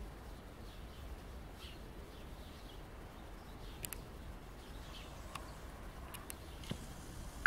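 Faint bird chirps scattered over a quiet low rumble, with a couple of sharp clicks about four and six seconds in.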